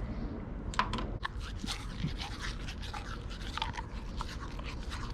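A dog licking and chewing at a toothbrush in its mouth: a quick, uneven run of wet clicks and scrapes that starts about a second in and keeps going.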